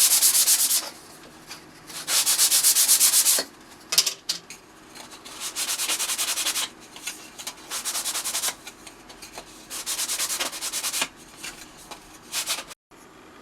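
Sandpaper rubbed quickly back and forth over thin 3 mm plywood pieces, smoothing the surface roughness off their inside faces. It comes in about six spells of rapid strokes, each about a second long with short pauses between, the later spells a little quieter.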